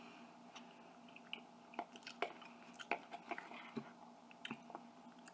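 A person chewing a mouthful of chicken and rice close to the microphone, with scattered short clicks and smacks.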